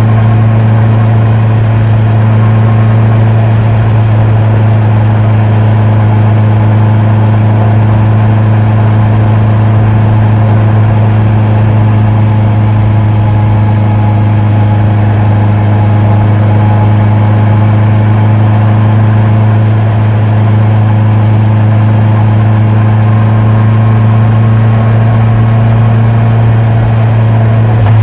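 Honda CB650R's inline-four engine and exhaust running loud at a steady, unchanging pitch.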